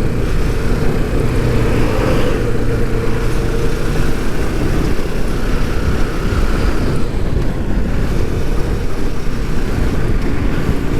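Kawasaki motorcycle running at road speed, its engine mixed with a steady rush of wind on the rider's microphone.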